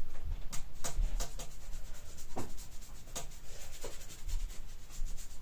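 Irregular scratching and clicking of small hand work on a toy's surface, about a dozen short scrapes and taps at uneven intervals.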